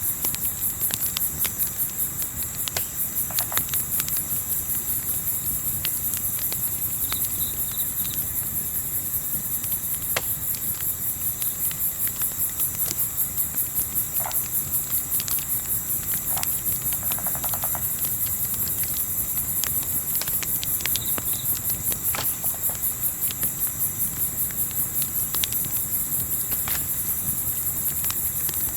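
Crickets chirping in a fast, even pulse, with scattered sharp crackles and pops from a wood campfire over a low steady rumble.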